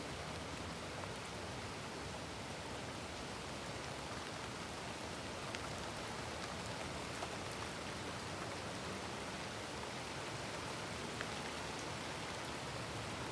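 Heavy rain pouring down, a steady even hiss with faint scattered drop ticks.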